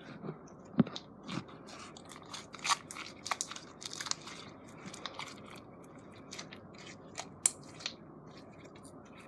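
Homemade glue slime being squeezed and stretched in the hands, giving irregular sticky clicks and pops.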